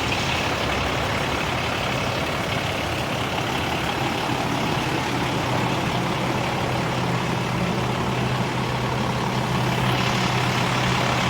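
Fire engine running steadily at a standstill, a constant low engine hum with broad mechanical noise and no siren.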